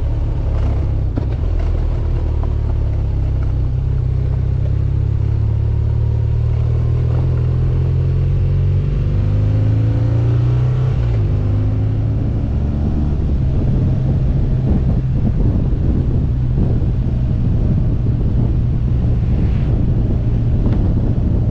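BMW R1200GS Adventure's boxer-twin engine running steadily at low road speed, heard from on board the motorcycle, with its note shifting and rising for a few seconds around the middle.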